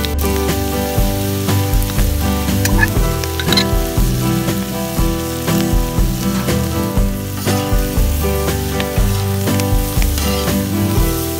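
Prawns and chopped greens sizzling on a hot flat-top barbecue griddle, with a spatula scraping and tossing them on the plate now and then. Background music plays throughout.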